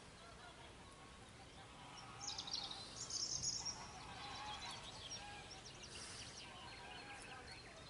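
Faint birdsong: several birds chirping and twittering, with a louder burst of quick, high twittering about two to three and a half seconds in.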